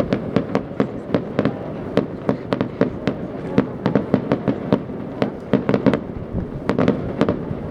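Fireworks display: a rapid, irregular string of sharp bangs and cracks, several a second.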